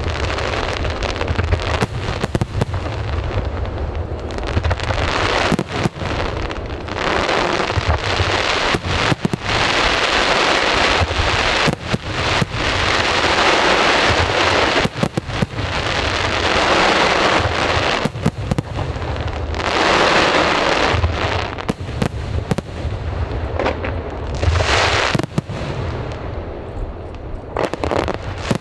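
An aerial fireworks display going off in quick succession: many booming bursts, overlapped by long spells of dense crackling from crackle-effect shells.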